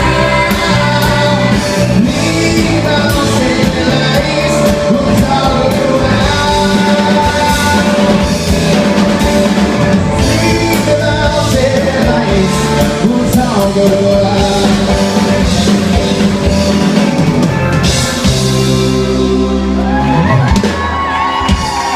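Live rock band playing the closing section of a song, with drum kit, cymbals and vocals in a club room. About eighteen seconds in, the band holds a chord under a cymbal wash, and the sound starts to fall away at the very end.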